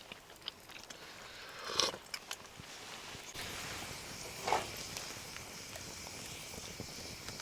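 Campfire crackling with scattered small pops, and two brief louder scuffs or rustles, about two and four and a half seconds in.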